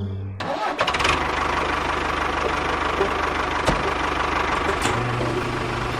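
Steady engine-like motor noise with a low hum that starts abruptly about half a second in and steps up to a higher pitch about five seconds in, with a few faint clicks along the way.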